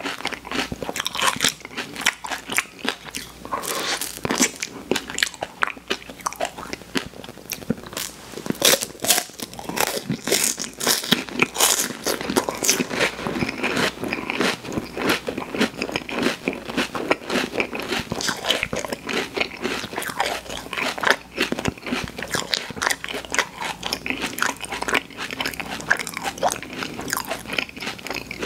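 A person chewing food up close: a dense, unbroken run of small clicks and crunches.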